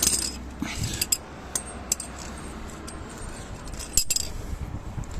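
Scattered light metallic clinks and taps of tools and metal parts being handled, a cluster at the start, a few more over the next two seconds and a sharper one near the end, over a low steady background.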